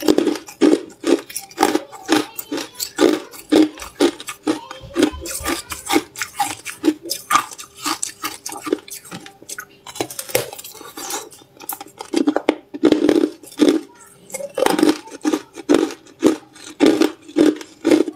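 Hard clear ice being crunched between the teeth: loud, sharp crunching chews at about two a second, thinning out to scattered crunches about halfway before the steady rhythm returns.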